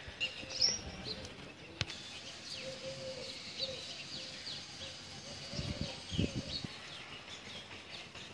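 Small birds chirping over and over in short, quick falling notes, with a few low muffled thumps about six seconds in.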